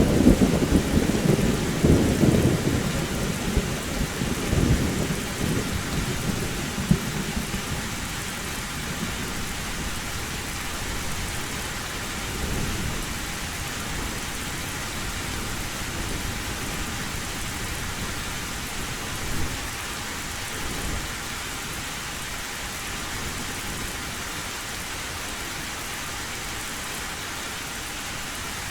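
Heavy rain on an old tin roof, a steady hiss, with a rumble of thunder at the start that dies away over the first several seconds; fainter distant rumbles come back briefly twice later.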